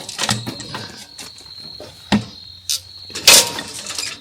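Scattered metallic knocks and clinks from hands-on work on a sawmill, the loudest about three seconds in, over a steady high-pitched tone.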